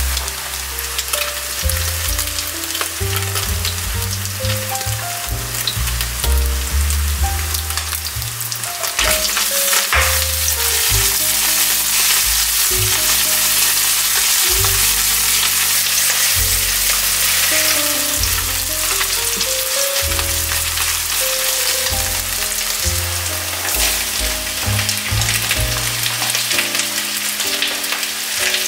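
Minced pork sizzling in hot oil in a nonstick wok while sugar caramelizes in the pork fat, stirred with a silicone spatula. The frying grows louder about nine seconds in. Background music plays underneath.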